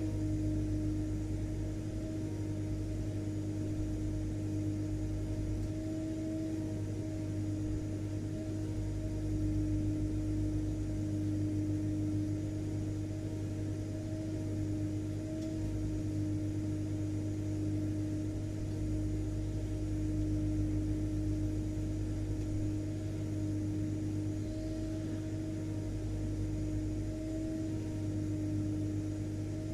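Vacuum cleaner motor running steadily, a constant hum with a steady pitched whine over it.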